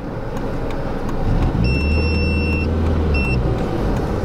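VW Lupo's swapped-in 1.8-litre 20-valve turbo four-cylinder running, heard from inside the cabin, with a deep drone that grows louder about a second in. Two steady high beeps sound over it, one about a second long and then a short one.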